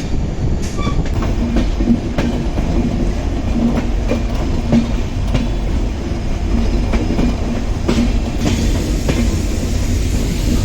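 Train running along the track, heard from on board: a steady low rumble with the clickety-clack of wheels over rail joints.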